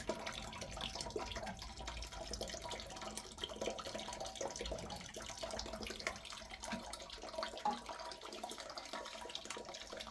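Water running steadily and splashing, with many small scattered drips and splatters.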